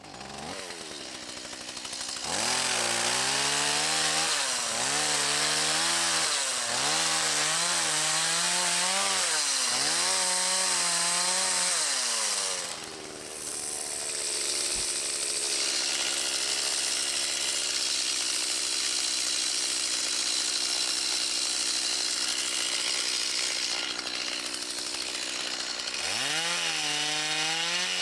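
Chainsaw cutting into a dead dry tree: the engine repeatedly revs up and bogs down as the chain bites the wood. About halfway through it settles into a steady high-revving run through the cut, then revs up and down again near the end.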